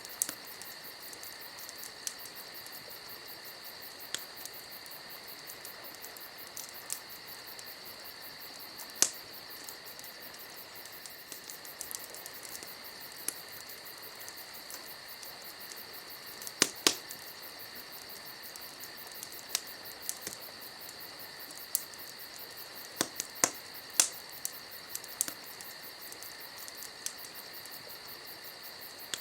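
Campfire crackling, with sharp pops at irregular intervals, the loudest cluster about two-thirds of the way through. Behind it, crickets chirr steadily on a high tone.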